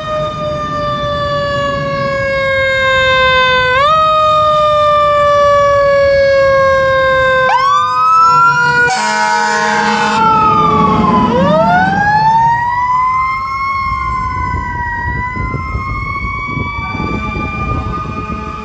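Fire engine's mechanical Q siren winding up and slowly coasting down, wound up again several times, with one blast of the air horn lasting about a second just before the middle; the truck's engine runs under it.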